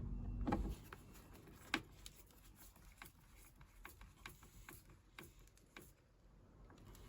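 Faint, scattered clicks and light knocks, with one sharper click about two seconds in.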